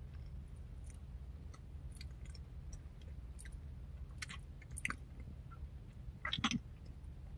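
Close-up chewing of a mouthful of flour-coated baked chicken leg: soft, scattered mouth clicks and wet smacks, the loudest cluster about six and a half seconds in, over a low steady hum.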